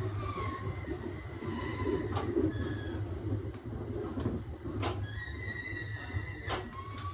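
Aoimori Railway 701 series electric train running on the rails with a steady low hum, its wheels squealing in thin high tones, and several sharp clicks from the track.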